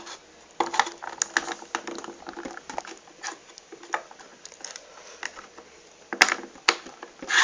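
Irregular small clicks and taps of a plastic action figure being wiggled into place on its metal display stand.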